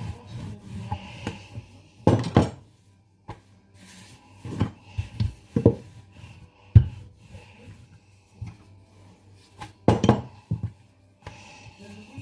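Irregular knocks and light clatter of pie dishes and utensils on a kitchen worktop as shortcrust pastry is pressed into the dishes and trimmed, about nine separate knocks spread through the stretch.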